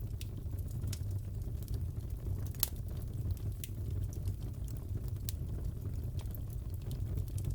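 Wood fire crackling in a fireplace: a steady low rumble with sharp pops at irregular intervals, one louder pop a little over two and a half seconds in.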